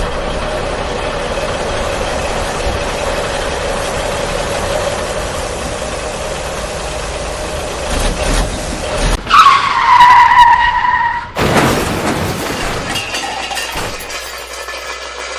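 Small electric motor of an RC toy vehicle running steadily with a hum. About nine seconds in, a loud tone sounds for about two seconds, dropping a little in pitch, then rougher, louder motor noise follows and slowly fades.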